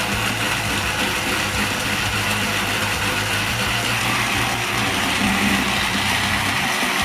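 Small battery-powered toy train motors whirring steadily with their gearing, running under load.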